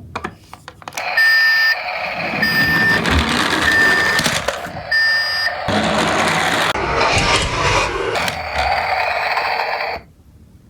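Toy garbage truck's electronic sound chip: a high beep repeated four times about a second apart over a rattling, hissy noise, then a louder noisy stretch that cuts off suddenly near the end.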